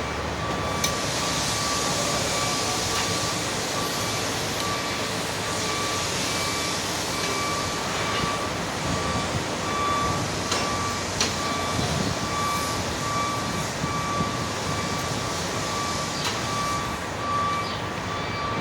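A vehicle's reversing alarm beeping steadily, about two beeps a second, over a steady background of noise, with a few sharp metallic clicks.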